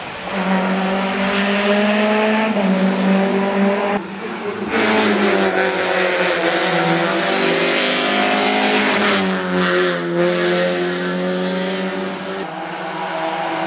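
Rally car engine running hard at high revs, its pitch stepping with gear changes about 2.5 and 4 seconds in, then climbing and falling again near the end.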